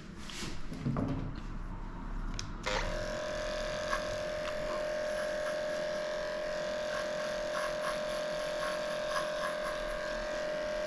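Electric dog grooming clippers switched on about three seconds in, then running with a steady hum and small clicks as the blade works the paw pads. Some handling rustle before they start.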